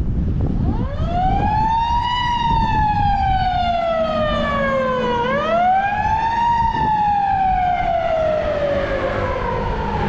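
An emergency vehicle's siren wailing: the pitch climbs quickly, then slides slowly down, twice over. Beneath it is a steady low rumble of wind and road noise.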